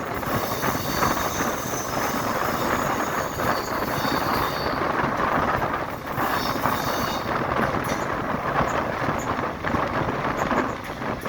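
Passenger express train running at speed, heard from on board: a steady rush of wheel and track noise and wind, with faint high squealing on and off.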